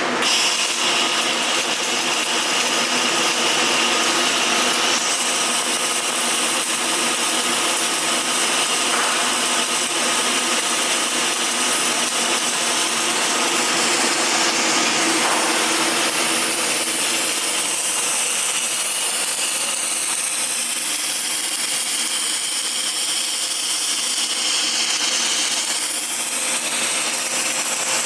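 Electric power tool, such as an angle grinder, running steadily on metal, its high whine wavering in pitch under load in the second half.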